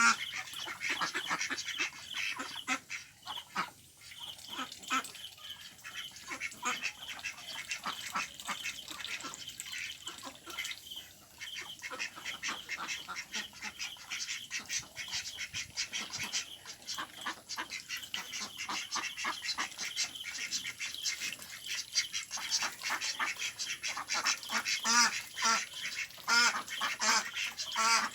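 A flock of ducks quacking continuously, many short calls overlapping, with louder calls near the end.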